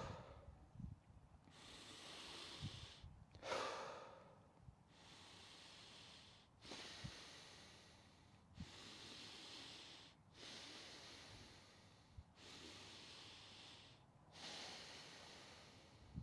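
Faint Wim Hof method breathing: deep, forceful breaths in and out through the mouth in a steady repeating rhythm, each breath a soft airy rush lasting a second or two, one louder breath about three and a half seconds in.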